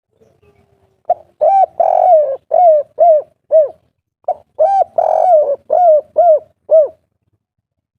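Spotted dove (derkuku) cooing its 'kuk 3' song: two phrases of rhythmic coos, each about seven notes, starting about a second in and again about halfway through.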